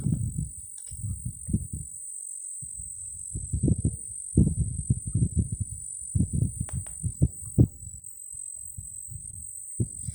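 Insects chirring in one steady, high, continuous tone, under irregular low rustles and thumps that come in clusters and are the loudest sounds.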